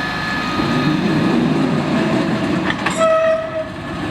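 Steam-hauled spoil train rolling along the dump track with a steady rumble of wagons. A high steady tone fades out just after the start, and a brief higher tone with a few clanks comes about three seconds in.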